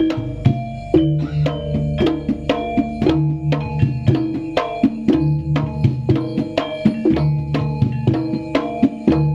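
Jaranan gamelan ensemble playing live: hand drums beating a quick pattern under fast, ringing struck notes from bronze metallophones, with a low note sounding again about every one and a half seconds.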